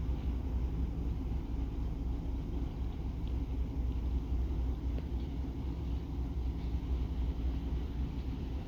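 Steady low rumble of a ferry's engines as it leaves port, with no change in loudness.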